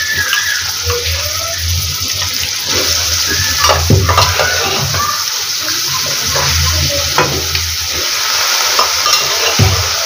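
Steady frying sizzle as boiled chickpeas go into hot spice masala that has separated from its oil in a kadai. A metal ladle scoops them from a pressure cooker and knocks against the metal pots several times.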